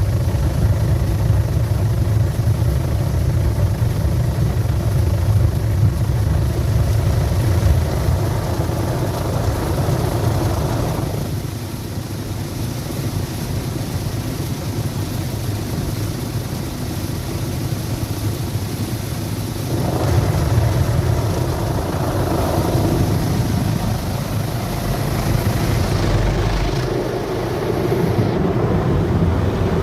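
Automatic car wash machinery working over the car, heard from inside the cabin as a steady, loud low rumble of water and machinery. It eases about 11 seconds in, builds again around 20 seconds and changes character once more near the end as the wash moves through its stages.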